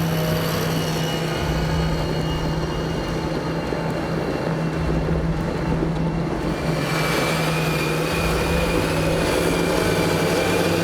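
John Deere 8530 tractor engine running steadily under load. About seven seconds in, the sound fills out and a high whine joins the drone.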